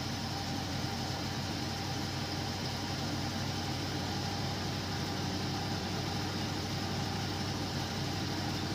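1979 Ford F-350 pickup's gasoline V8 engine, fed by an aftermarket Holley carburetor, idling steadily about a minute after a cold start with no choke.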